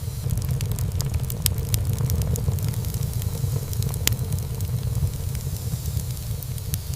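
Wood fire burning in a fireplace: a steady low rumble of flames with irregular crackles and pops from the burning wood, one sharper pop about four seconds in.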